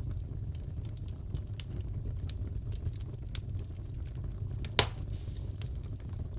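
Wood fire crackling in a fireplace: scattered small snaps and ticks over a low steady rumble, with one loud pop near the end.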